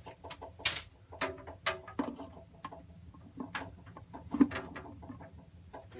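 Water heater ticking and knocking irregularly after being plugged back in, the sharp clicks coming at uneven intervals, some with a brief ringing note; the owner cannot find what part is knocking.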